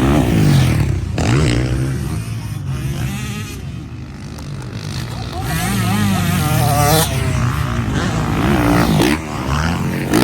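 Several motocross bikes racing, their engines revving up and falling away in overlapping waves as they pass.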